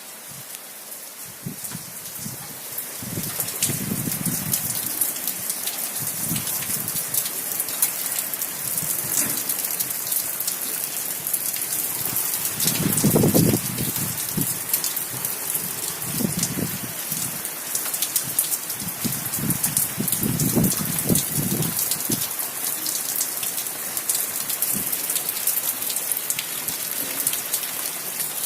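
Heavy rain falling, a steady hiss dense with the patter of individual drops. Several low rumbles rise and fade within it, the strongest about halfway through.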